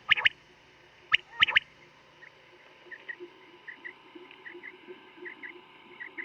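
Recorded male quail (batair) calling: clipped, sharp notes in quick groups, a pair right at the start and a note followed by a quick pair about a second in, then fainter short chirps repeating steadily over a faint recording hum. A hunting call recording used to lure quail.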